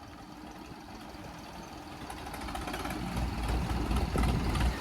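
Tractor diesel engine running, its low rumble growing louder and heavier about three seconds in.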